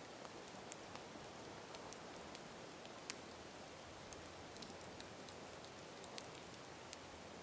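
Campfire burning, a steady low hiss with scattered sharp crackles and pops, one pop louder than the rest about three seconds in.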